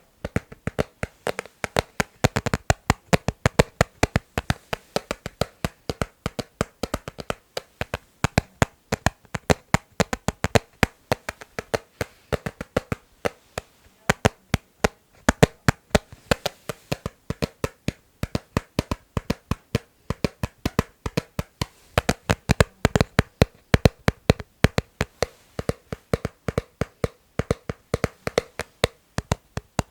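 Rhythmic ASMR tapping on a hard object, quick sharp taps several a second in uneven runs, with a slight ring to each tap.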